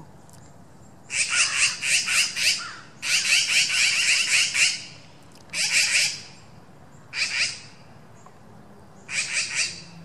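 Several birds calling in five bursts of rapid, harsh repeated notes, separated by short pauses.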